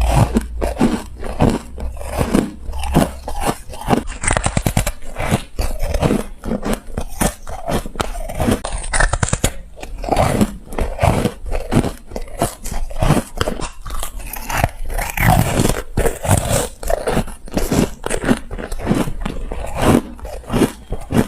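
Rapid, repeated bites into ice close to the microphone: a dense run of sharp crunches, several a second.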